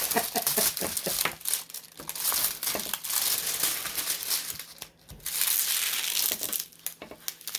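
Plastic protective film crinkling and crackling as it is peeled off the adhesive surface of a diamond-painting canvas, with a brief pause about five seconds in.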